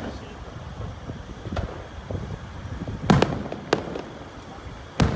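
Aerial firework shells bursting: several sharp bangs, the loudest about three seconds in, with others near the middle and near the end.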